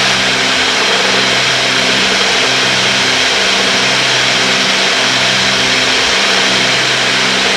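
Cessna 310's twin piston engines and propellers in cruise, heard in the cabin as a steady drone that swells and fades in a regular, even pulse.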